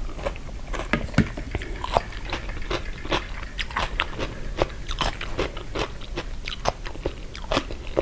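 Close-up chewing and crunching of a spicy Thai pickled-seafood salad with crunchy pickled jellyfish: many sharp, irregular crunches a few times a second.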